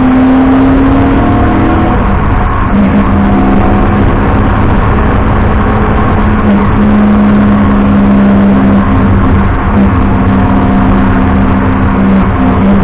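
BMW 330i E90's inline-six engine pulling hard on a wet track, over a constant rushing noise. The note rises, breaks about two seconds in, then holds a fairly steady pitch with small dips later on.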